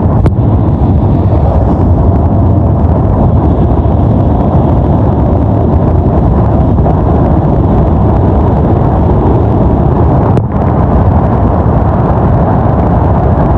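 Steady, loud rumble of a vehicle on the move: road and engine noise with wind buffeting the microphone, broken by brief cuts about ten seconds in.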